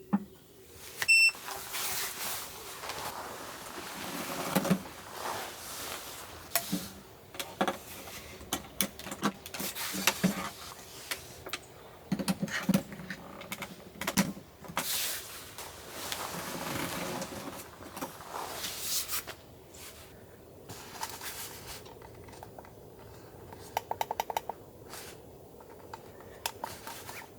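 Objects being handled at close range: a string of clinks, knocks and rustles, with a short run of rapid clicking near the end.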